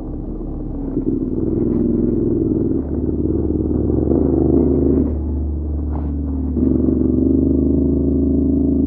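CFMoto 450MT adventure motorcycle's parallel-twin engine pulling up a rocky climb, its revs rising and falling several times with the throttle.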